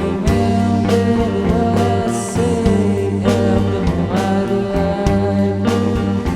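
Rock band playing a psychedelic rock song: drums with regular cymbal and snare hits over a steady bass line, with guitars and a wavering melody line on top.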